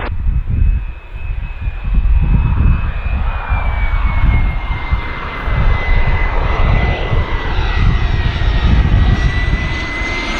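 Cessna Citation XLS business jet arriving to land, its turbofans running with a steady high whine that slides down in pitch over a few seconds as it passes, over a heavy low rumble.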